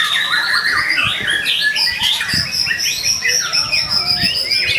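White-rumped shama (murai batu) singing a fast, continuous, varied song of quick chirps and trills. In the second half it holds one long high whistle over the chatter.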